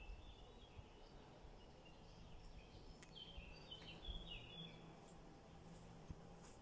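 Near-silent outdoor quiet with faint bird chirps, a short run of them about three to four seconds in.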